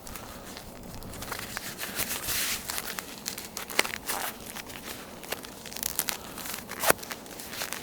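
Irregular crunching and crinkling of boots stepping on snow, with scattered sharp crackles and a denser stretch of rustling about two seconds in.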